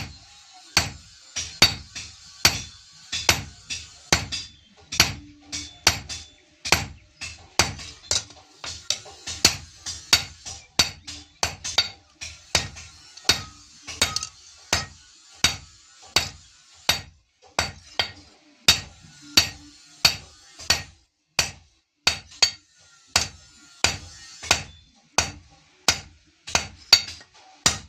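Blacksmith's hand hammer forging steel on an anvil, with sharp ringing strikes in a steady rhythm of about two a second.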